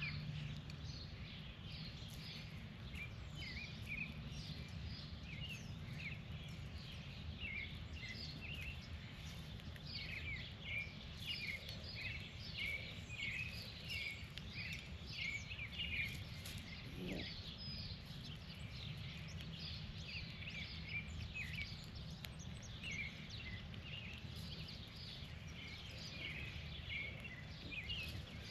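Birds chirping over and over in short, quick calls, many overlapping, over a steady low outdoor rumble.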